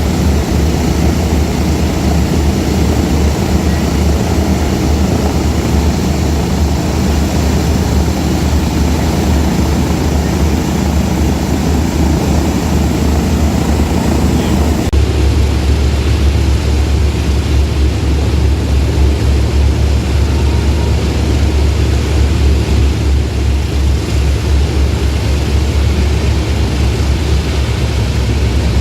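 Lockheed Super Constellation's Wright R-3350 piston radial engines running, a loud, steady propeller drone. About halfway through the sound changes abruptly, becoming deeper with less hiss on top.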